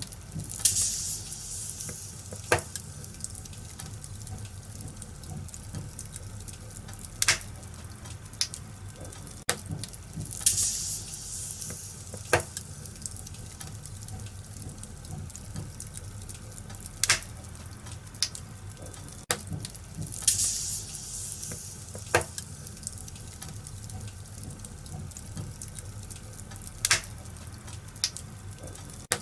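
Wood fire crackling in an open fireplace: sharp single pops every few seconds and brief hissing flares about every ten seconds, over a low steady rumble of the flames.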